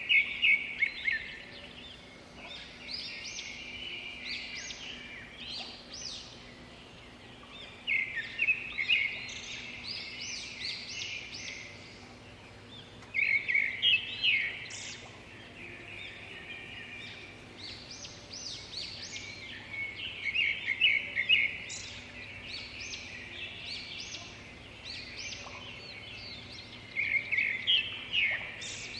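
Birds chirping in repeated bursts of rapid high notes every few seconds, over a faint steady low hum.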